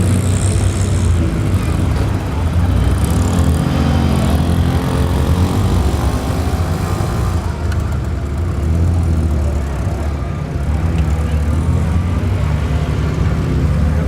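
Engines of classic Morris Minor cars running at low speed as they are driven slowly into line, with a steady low rumble and pitch that rises and falls a little.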